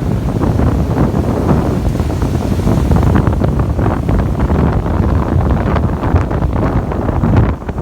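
Wind buffeting the microphone in a loud, fluttering low rumble, over the wash of ocean surf; the wind lets up briefly near the end.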